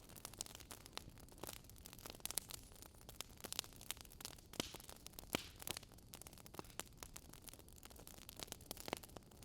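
Wood campfire crackling: faint, irregular sharp pops and snaps over a low steady hiss.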